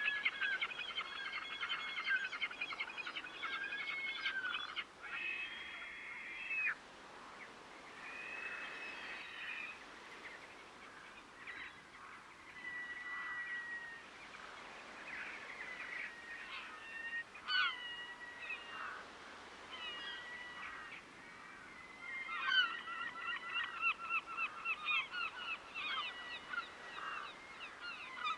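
Waterbirds calling: fast runs of repeated call notes at the start and again in the last several seconds, with scattered single whistled notes and short gliding calls in between.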